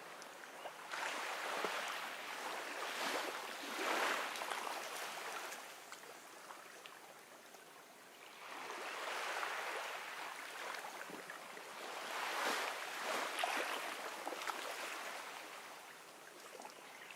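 Gentle ocean waves washing in on a beach: two swells of surf a few seconds apart, each rising and then fading away into a quieter lull.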